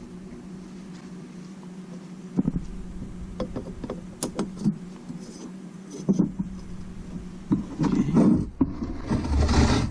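Valve being lapped into its seat with lapping compound: intermittent gritty scraping and small clicks of metal on metal, sparse at first and busier after about six seconds, with a longer scrape near the end. A steady low hum runs underneath.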